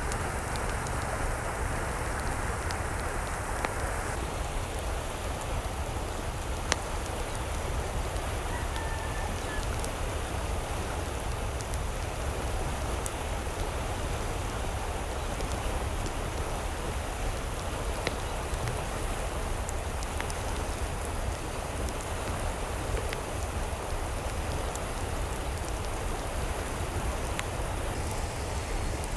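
Steady rain falling, an even hiss with scattered ticks of individual drops hitting a surface.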